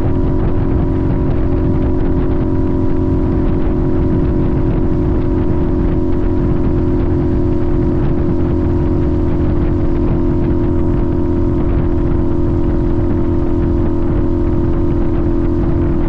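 Sportbike engine running steadily, its pitch held level without revving up or down.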